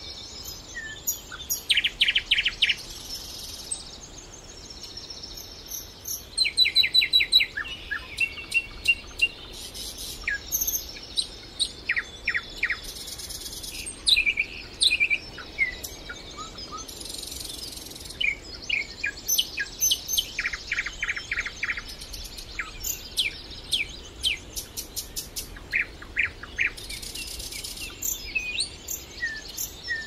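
Several small songbirds singing and calling, with short chirps, whistles and fast trills overlapping one another.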